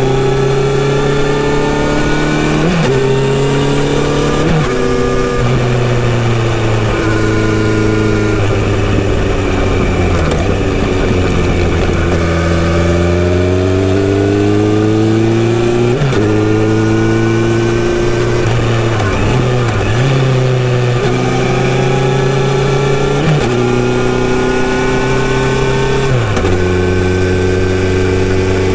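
Kawasaki Z900RS inline-four engine with a full-system sports exhaust, ridden on the road: it pulls up through the gears, its note rising and then dropping sharply at each upshift. About a third of the way in it eases off and slows, then accelerates again through several more shifts.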